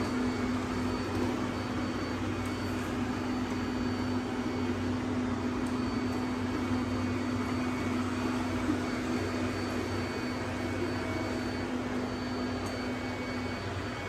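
Robot vacuum cleaners running: a steady whir of suction motors and spinning brushes, with a low steady hum that drops out near the end.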